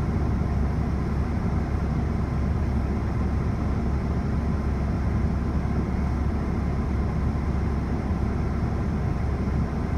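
Car engine idling while stopped, heard from inside the cabin as a steady low rumble.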